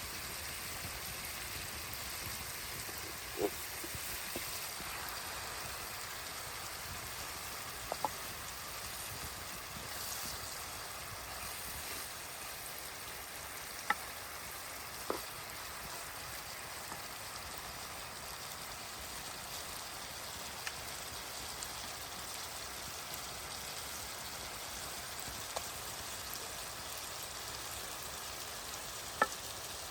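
A steady, even hiss of outdoor ambience, with a handful of short sharp clicks scattered through it.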